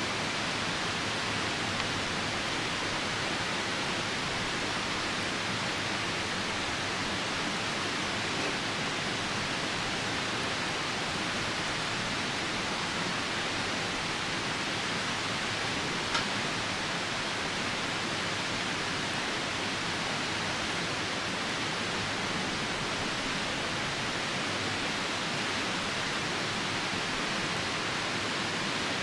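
Steady rushing of a nearby river mixed with falling rain. A campfire gives one sharp crackle a little past halfway.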